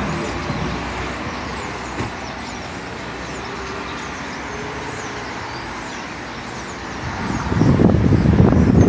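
Outdoor street ambience with traffic noise and faint, high, short chirps of birds. A single click about two seconds in. A loud low rumble builds from about seven seconds in and is the loudest sound.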